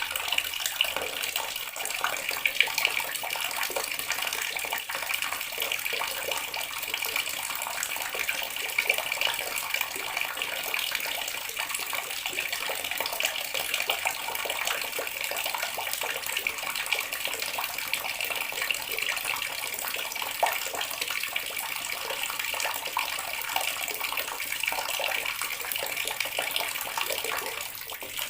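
Water running steadily from a tap in a continuous stream.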